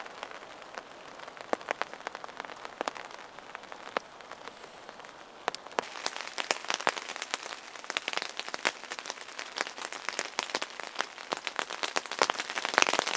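Rain falling, with individual drops hitting close by as sharp ticks over a steady hiss; the drops come thicker from about halfway through.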